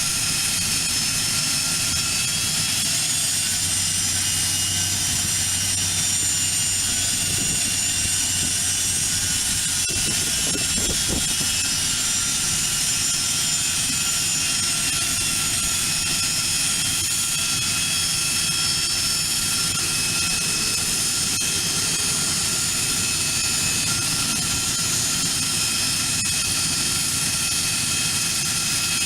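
Learjet's jet engines running with a steady, loud high-pitched whine, several whining tones held over a constant roar.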